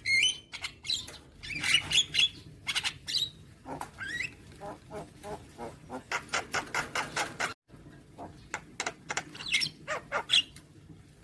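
Javan myna (jalak kebo) calling and chattering: harsh squawks and clicks mixed with short rising whistled notes, and a fast rattling run of notes about six seconds in. The song cuts out abruptly for a moment a little past halfway.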